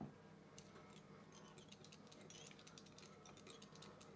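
Near silence with faint light clicks and ticks from hands working tying thread and a bobbin at a fly-tying vise, most of them in the second half, over a low steady hum.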